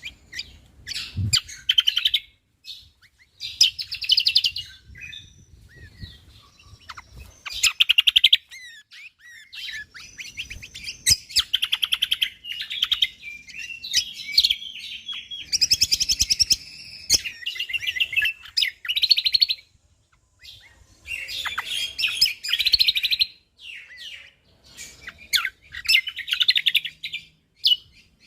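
Cucak kombok (kecial kombok) songbird singing: rapid, high-pitched chirping phrases delivered in tight bursts of a second or two with short pauses between them.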